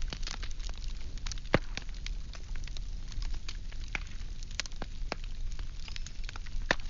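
Firewood burning: irregular crackles and sharp pops, one loud pop about a second and a half in and another near the end, over a steady low rumble of the fire.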